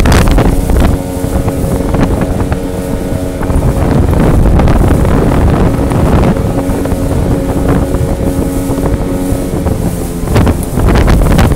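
Jet boat engine running steadily at speed while towing, its hum heard under heavy wind buffeting the microphone.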